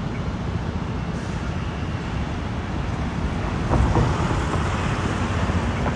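Steady city street traffic noise, a low rumble of passing vehicles that swells briefly about four seconds in.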